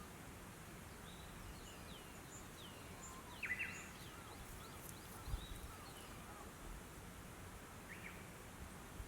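Faint birdsong: scattered short, quick chirps and whistles, busiest about three and a half seconds in, over a steady outdoor hiss, with a soft low thump a little after five seconds.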